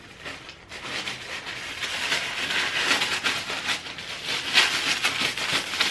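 Plastic packaging crinkling and rustling as it is handled, a dense crackle that starts about half a second in.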